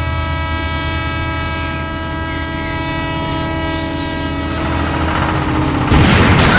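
A dubbed machine sound effect: a steady, many-toned drone over a low pulsing chug for about five seconds, then a loud, noisy clatter about six seconds in.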